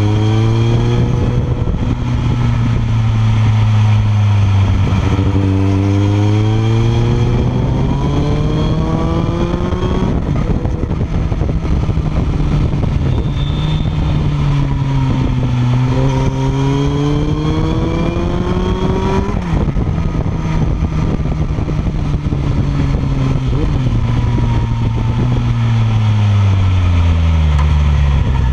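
Kawasaki ZX-14R's inline-four through a Yoshimura R77 exhaust, pulling hard uphill. The pitch climbs in long rising sweeps, drops sharply at each gear change, holds steady for stretches, and falls away near the end as the bike slows. A steady rush of wind and road noise runs underneath.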